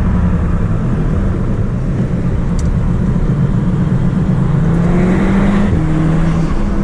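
Audi S3 8P's turbocharged 2.0 TFSI four-cylinder engine running under load on the road. Its pitch rises for a couple of seconds and then drops suddenly about three-quarters of the way through.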